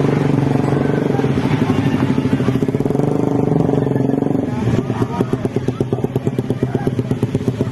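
Engine running, loud and steady, then settling into a rhythmic throb of about five pulses a second from about halfway through. It cuts off abruptly at the end.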